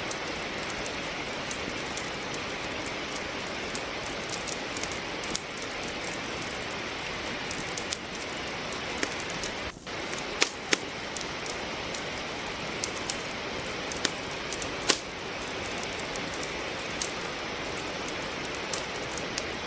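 Steady rain with the irregular crackle and pop of wood logs burning in a fireplace; a few louder pops in the middle stand out above the rain.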